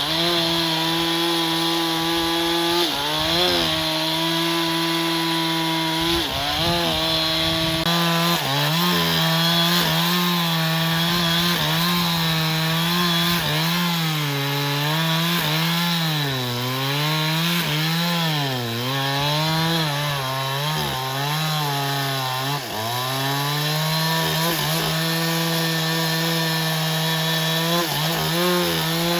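Sawmill saw running and cutting through a log, with a steady pitched drone. From about a third of the way in, the pitch dips and recovers again and again as the cut loads the saw, then it steadies near the end.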